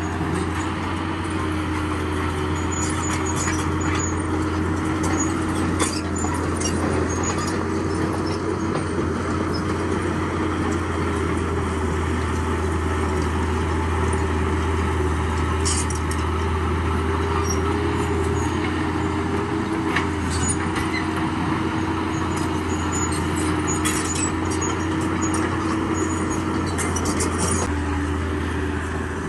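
Heavy diesel earthmoving machinery running steadily, a continuous engine drone with a low hum and a held mid tone, with scattered small clicks and clinks over it.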